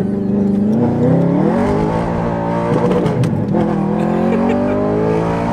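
Audi R8 engine under hard acceleration, heard from inside the cabin: the engine note climbs in pitch, falls back briefly around the middle, then climbs again.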